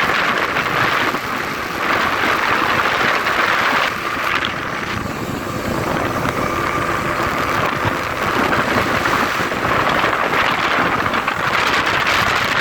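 Speed boat running at speed: engine noise mixed with a loud rushing of wind and water, swelling and easing every second or two.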